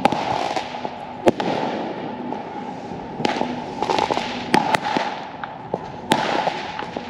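Consumer fireworks going off: single sharp bangs about a second in, twice in quick succession near the middle, and again near the end, with stretches of crackling in between.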